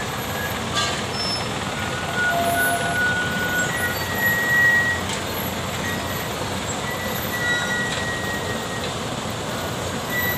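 Heavy truck engines running in a steady rumble, with short thin high tones coming and going over it.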